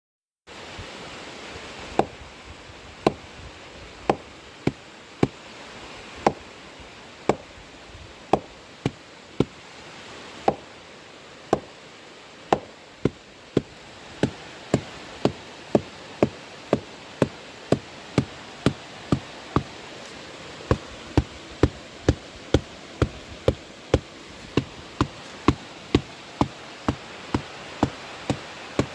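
Rhythmic knocking on wood, typical of a sugar palm tapper beating the palm's flower stalk to make the sap flow. It runs at about one knock a second, quickening to nearly two a second about halfway through, over a steady hiss.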